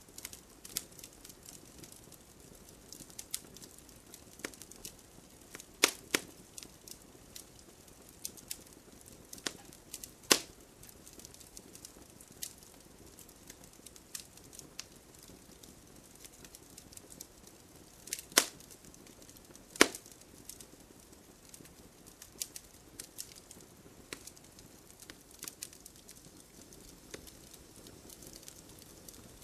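Wood fire burning in a fireplace, crackling steadily over a soft hiss, with a few sharp louder pops now and then.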